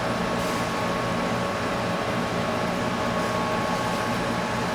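Steady mechanical hum with a faint, even high tone running through it.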